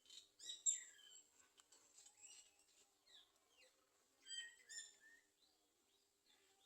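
Garden sunbirds chirping: short, high chirps, loudest about a second in, with another quick cluster of chirps a little past four seconds.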